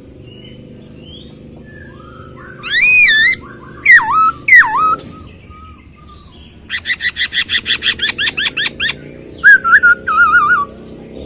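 A poksay hongkong laughingthrush singing loud, clear whistled phrases: a wavering whistle, two swooping notes, a fast run of about eight repeated notes a second, then a short warble near the end, over a steady low hum.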